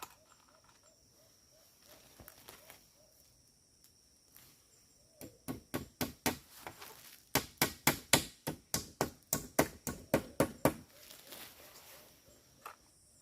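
Rapid tool blows on wood, about three to four a second, in two runs with a short pause between them.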